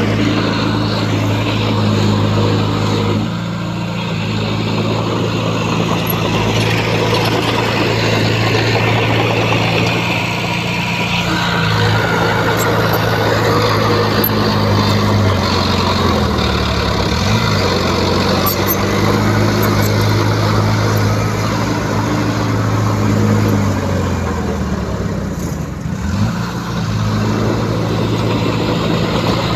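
Heavy diesel earthmoving machinery running continuously. Its engine note sags and recovers briefly twice, about halfway through and near the end.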